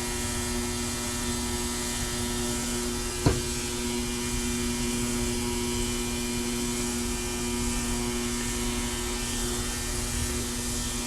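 Steady motor hum, with one sharp click about three seconds in.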